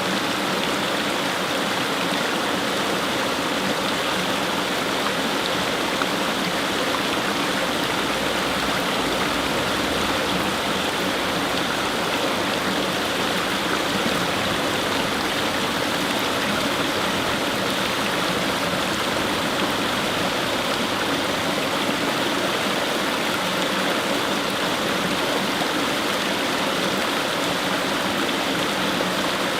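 Fast-flowing stream, water rushing and splashing steadily over stones.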